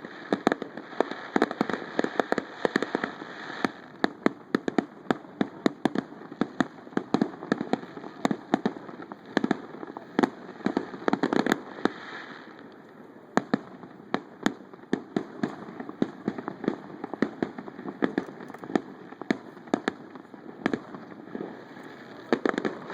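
Fireworks display: a rapid, continuous string of sharp bangs and crackles, several a second, thickest in the first few seconds and again near the middle.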